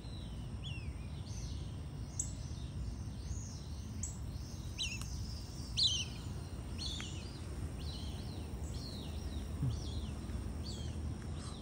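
Birds calling in a quick series of short, high, downward-slurred chirps, loudest about six seconds in, over a steady low rumble of background noise.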